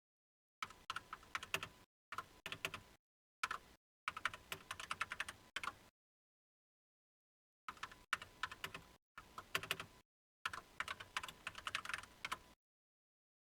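Typing on a computer keyboard: rapid keystrokes in several bursts of one to two seconds, with dead silence between them.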